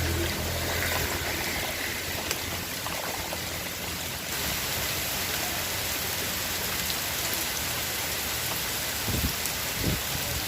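Steady rain falling, an even hiss throughout, with a low hum fading out in the first few seconds and a few low knocks near the end.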